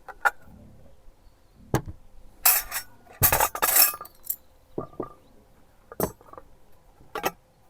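Glasses and dishes clinking, a string of separate sharp clinks and knocks with a longer clatter in the middle, as tableware is handled and set down.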